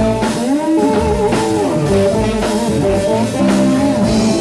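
Live blues-rock band playing, with electric guitar lines bending in pitch over drums.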